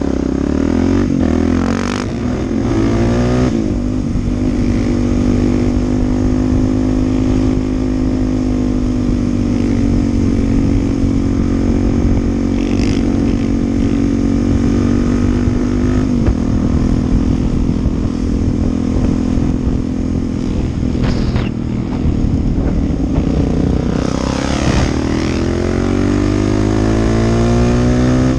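On-board sound of a Suzuki DR-Z dirt bike's single-cylinder engine cruising at a steady pitch, with the pitch rising and falling through gear changes a couple of seconds in and again near the end. Wind rumble on the microphone runs underneath.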